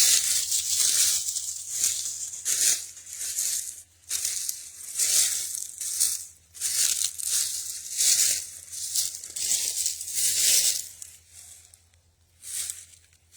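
Footsteps crunching through dry leaves and brush, a crackling step at a steady walking pace, with a short pause near the end.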